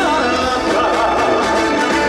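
Live trot song: a male singer's wavering vocal line over a loud, steady backing band.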